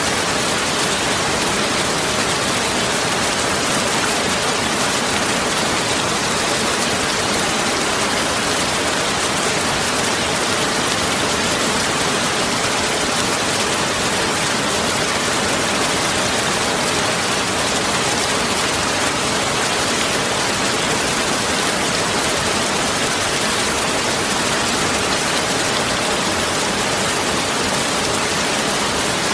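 Heavy rain falling steadily, a dense even hiss with no thunder or other events standing out.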